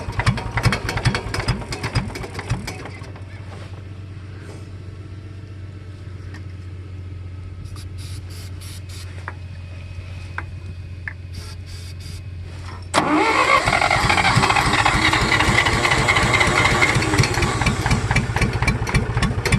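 1964 John Deere 1010 gas tractor engine being cranked on the starter, turning over fast without catching. After about three seconds the cranking stops, leaving a quieter steady low hum with a few clicks. About 13 seconds in the cranking starts again, suddenly and louder. The engine is hard to start, flooding and temperamental, and the owner suspects the carburetor needs cleaning.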